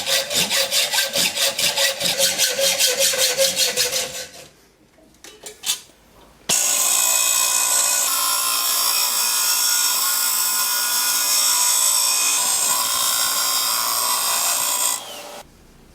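Hand saw cutting threaded steel rod in quick, even back-and-forth strokes, about seven a second, for about four seconds. After a short pause a power tool runs steadily for about nine seconds and cuts off near the end.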